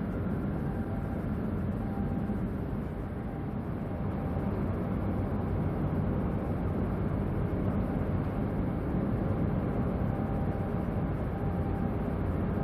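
Steady low rumble of a large ferry's engines and machinery, with a faint hum of steady tones over it, growing a little louder a few seconds in.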